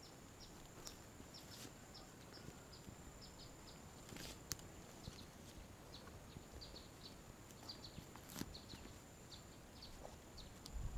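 Faint forest ambience of small birds chirping, short high notes repeated a few times a second over a steady thin high tone, with a soft knock about four seconds in and another about eight seconds in.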